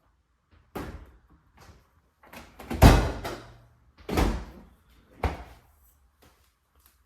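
Refrigerator being handled after the defrost: a series of about four knocks and thuds, like doors, drawers or panels being shut. The loudest comes about three seconds in.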